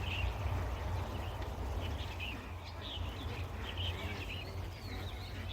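Small birds chirping repeatedly in short calls, over a steady low rumble.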